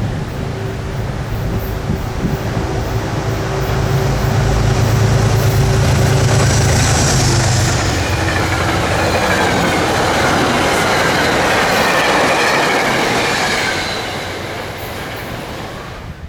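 A train passing on the rails with a steady low rumble that builds to its loudest in the middle. High-pitched wheel squeal and gliding screeching tones ride over it, then fade near the end.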